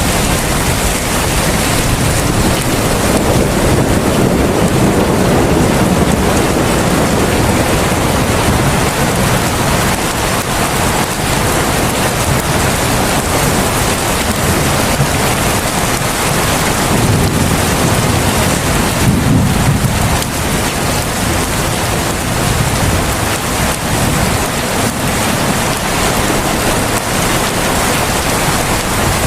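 Heavy rain falling steadily, a dense even hiss with a deep low rumble that swells and eases a couple of times.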